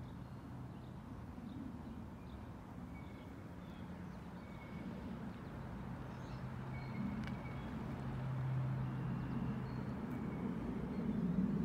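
Low, steady hum of a motor vehicle engine that grows gradually louder, with a few faint, short bird chirps above it.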